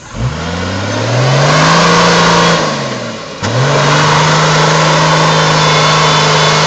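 Toyota LandCruiser 60-series 4WD's engine revving hard as the vehicle drives up out of a mud hole. The revs climb and hold, sag about three seconds in, and after a sharp knock the engine revs up again and holds high and steady.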